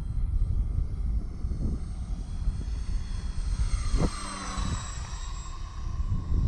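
Electric motor and propeller whine of an E-flite Valiant RC airplane flying past. It grows loudest about four seconds in, then drops slightly in pitch as it goes by, over heavy wind rumble on the microphone.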